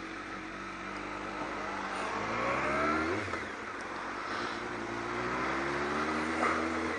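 Kawasaki ZX-12R's inline-four engine accelerating, its revs climbing, dropping sharply about three seconds in at a gear change, then climbing again, with wind rush on the microphone.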